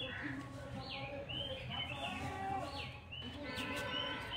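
A bird calling over and over, three or four times. Each call is a quick downward swoop into a short level whistle.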